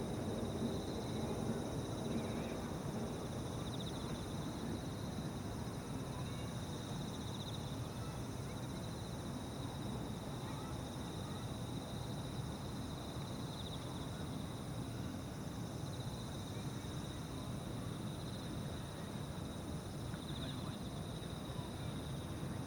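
Evening insects chirping: a continuous pulsing trill that swells now and then, with fainter, higher insect buzzing above it, over a steady low rumble of outdoor background noise.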